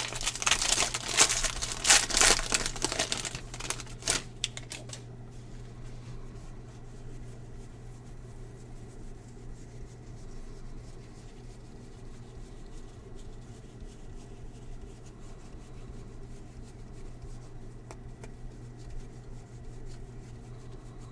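Baseball card packs being handled: for about four seconds there is dense crinkling and clicking of pack wrappers and cards, then it dies away. After that only a steady low hum remains, with an occasional faint tick.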